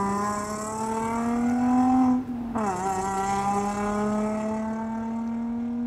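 Recorded Nissan 350Z engine and exhaust, its naturally aspirated 3.5-litre V6 running with no turbo sound, played from a phone. The note climbs slowly, breaks off with a short dip about two seconds in, then holds a steady pitch.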